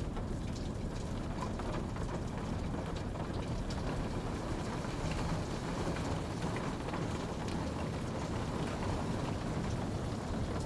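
Steady rain falling, a continuous even hiss with a deep rumble underneath and scattered small drop ticks.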